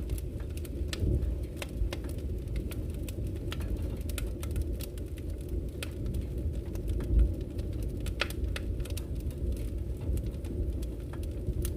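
Wood fire burning in a fireplace: a steady low rumble of the flames with frequent small crackles and pops of the burning logs, and one louder low thump about seven seconds in.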